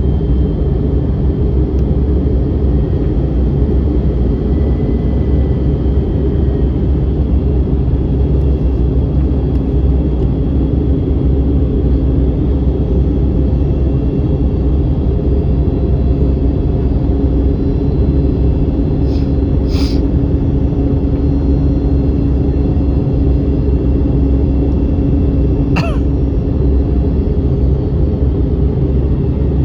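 Airbus A321neo cabin noise in flight: a steady low roar of engines and airflow with a faint hum. Two short sharp sounds break through, one about two-thirds of the way in and one near the end.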